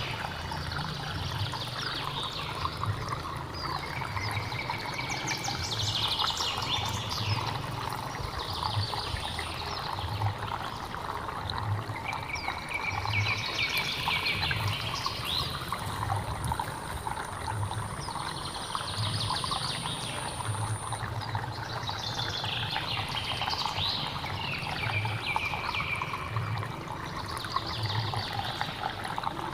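Water running and trickling steadily in a hill stream, with birds singing short phrases every few seconds over it.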